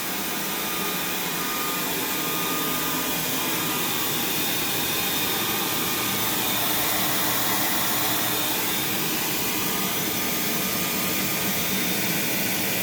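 Handheld hair dryer running steadily, a loud even rush of air with a faint motor whine.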